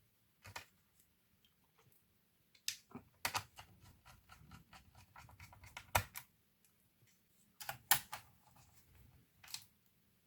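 Irregular sharp clicks and light taps of small plastic and metal laptop parts being handled, with a patter of little rattling clicks in the middle. The loudest click comes about six seconds in, and another near eight seconds.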